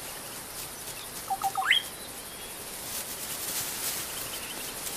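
Open-air ambience with a short run of chirps about a second and a half in, ending in one quick rising chirp.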